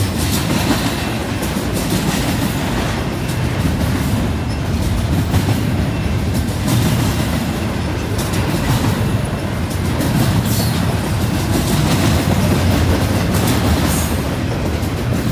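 Double-stack container well cars of a freight train rolling past: a steady, loud rumble of steel wheels on rail, with occasional clicks.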